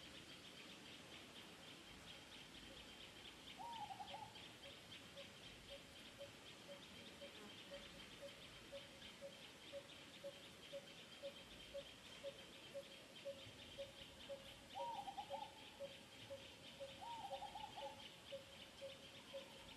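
Faint ambience: a bird repeats a short hooting note about twice a second over a steady high chirring, with a few short wavering calls now and then.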